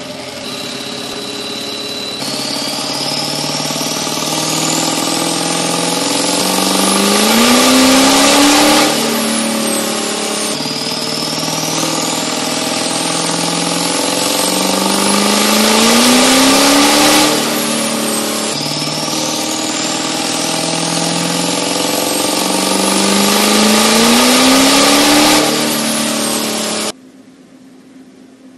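Duramax V8 turbo diesel with a big single S476 turbo pulling hard at full throttle. The engine note and a high turbo whistle climb together through three long pulls, dipping briefly at each gear change of the manual transmission. The sound cuts off abruptly near the end.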